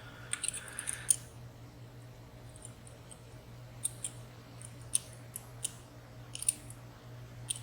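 Small metal clicks and ticks of a lock pick and tension tool working the pins and sliders inside a WSW W10 high-security padlock. There is a quick cluster of clicks at the start, then single irregular clicks every second or so.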